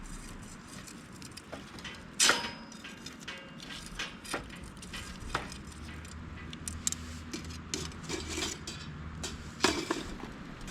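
Metal camp cooking gear being handled: a scatter of sharp clinks and knocks, the loudest about two seconds in and again near the end.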